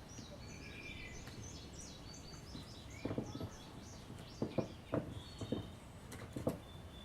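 Birds chirping in the background, with a string of short scraping and knocking sounds in the second half from knife work on a turkey leg as the tendons are worked loose.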